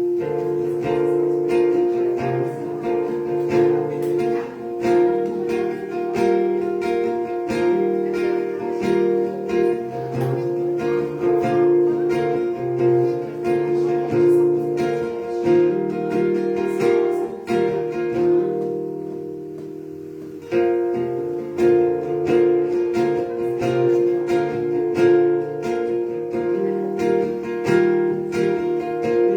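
Acoustic guitar strummed in chords with no singing. Past the midpoint one chord is left ringing and fades for about two seconds before the strumming resumes.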